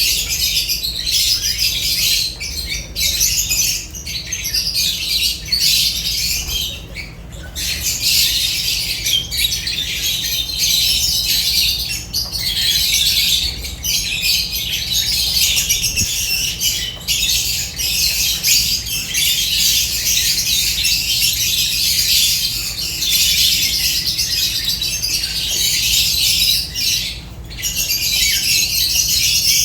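A flock of lovebirds chattering and squawking without pause, a dense mass of shrill, high-pitched calls.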